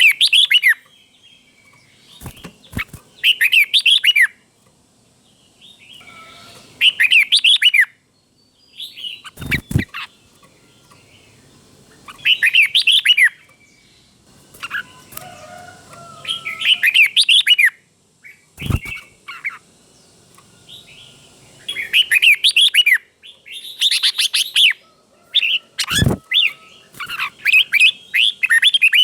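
Red-whiskered bulbul singing short phrases of quick warbling whistles, repeated in bursts every few seconds and often doubled. A few sharp clicks fall between the phrases.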